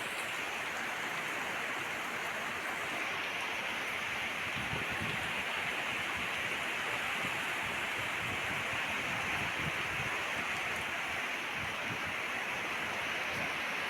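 Heavy rain pouring steadily in a strong wind, with low rumbling gusts now and then through the middle.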